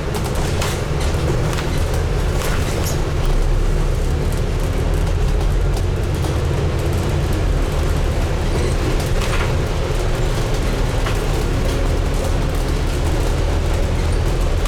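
Scania N250UD double-decker bus, with its five-cylinder diesel engine, under way and heard from on board: a steady low engine and road drone with a faint steady hum above it, and scattered small rattles and clicks from the bodywork.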